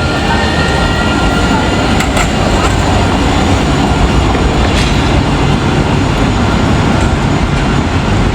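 Nottingham tram running: a steady, loud rumble and hiss with a few faint clicks.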